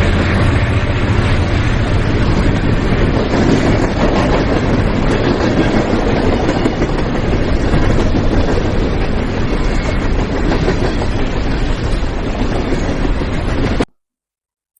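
Train running along the track, a loud steady noise of wheels on rails that cuts off suddenly near the end.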